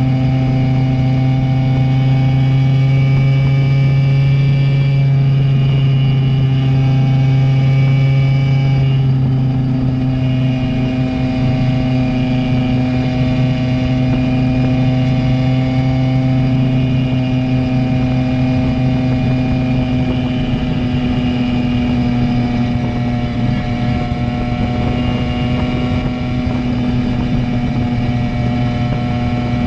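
Simson moped's two-stroke single-cylinder engine running under way through a JW G85 aftermarket exhaust, a steady buzzing engine note that shifts about nine seconds in and then holds.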